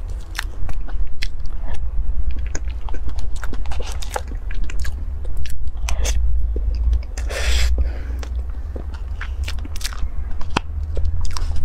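Close-miked chewing and wet mouth smacks from eating soft cream cake topped with dragon fruit, with many short sharp clicks throughout.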